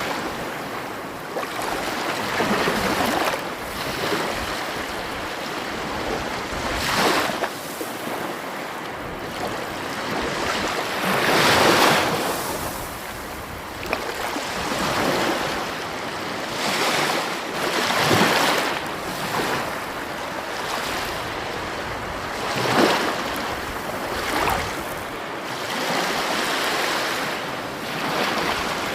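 Sea waves breaking and washing up the shore, a continuous surf hiss that swells into a fresh surge every few seconds at an uneven pace.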